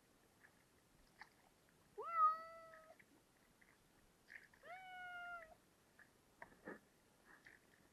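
Cat meowing twice, two drawn-out calls about two seconds apart, the first the louder, with a few faint clicks between.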